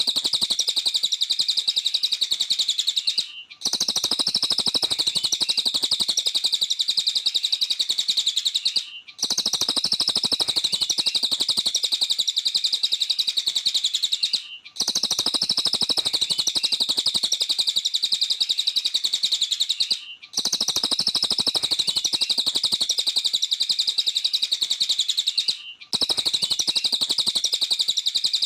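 A cililin bird singing continuously, a dense, rapid, high-pitched chattering trill. The same stretch of song repeats about every five and a half seconds, each separated by a brief break, as a looped recording.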